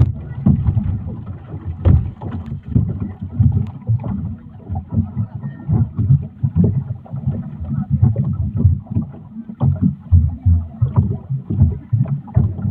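Rumbling, choppy noise of a boat under way on open water, with wind buffeting the microphone.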